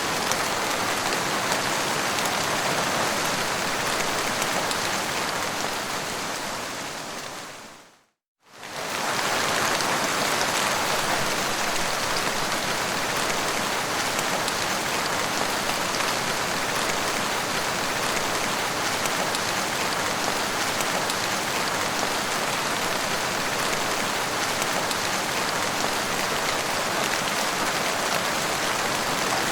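Steady rain falling, an even hiss. About six seconds in it fades away to silence, then comes back abruptly a moment later at full level.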